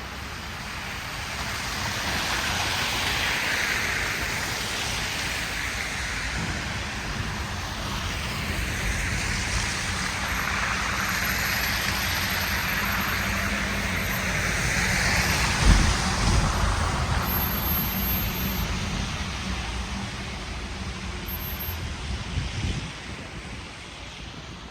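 Street traffic: several vehicles pass one after another, their tyre noise swelling and fading over a steady low engine rumble, with a single sharp thump about sixteen seconds in.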